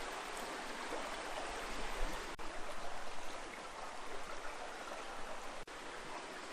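River water flowing: a steady rush of moving water.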